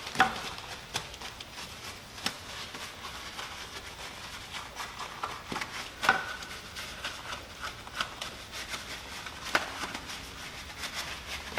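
Brush scrubbing a car wheel: bristles rubbing, with scattered clicks and a few louder knocks.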